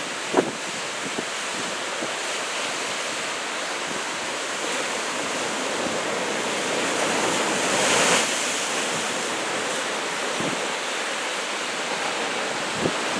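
Ocean surf rushing steadily, heavy swell from an approaching typhoon, with wind buffeting the microphone; the surf swells louder for a moment about eight seconds in, as if from a wave breaking. A few short knocks stand out, the strongest about half a second in and another near the end.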